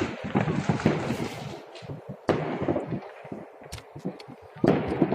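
Fireworks salute going off: three loud bangs about two seconds apart, with many smaller pops and crackles between them.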